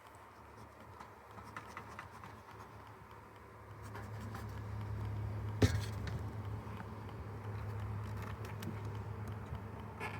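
Beehive parts being handled: light clicks and scrapes, with one sharp knock about five and a half seconds in. Under them, a low steady hum swells about four seconds in.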